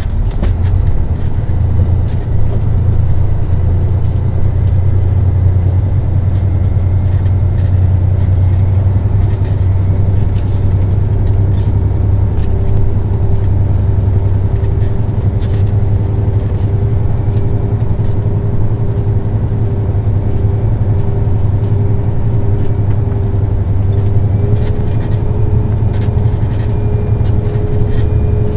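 Semi truck's diesel engine and road noise heard from inside the cab while driving, a steady low rumble. From about a third of the way in a whine joins it and slowly creeps up in pitch.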